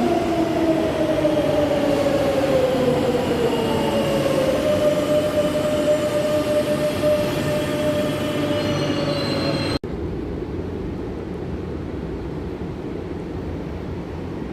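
Madrid Metro train running, its motor whine falling slowly in pitch as the train slows. About two-thirds through, the sound cuts off abruptly to a quieter, steady low rumble.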